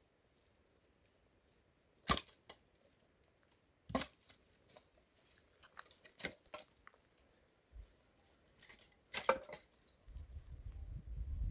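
A few sharp snaps and knocks of dry firewood being broken and handled, spaced about two seconds apart with quiet between, and a low rumble coming in near the end.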